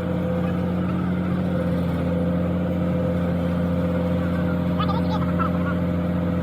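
Engine running steadily at a constant speed, a low even drone.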